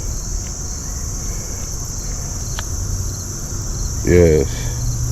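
Steady, high-pitched chorus of insects, with a brief sound from a man's voice about four seconds in.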